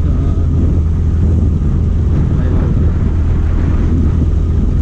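Steady low engine drone of a running vehicle, with wind noise on the microphone.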